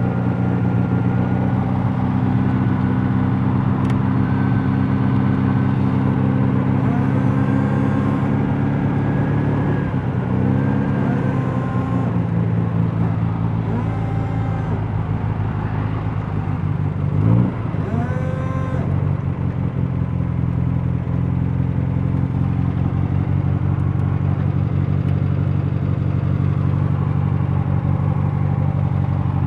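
Air-cooled VW Beetle flat-four engine running steadily, heard from inside the cabin. Its pitch swings up and back twice, once about a third of the way in and again, more sharply, just past the middle.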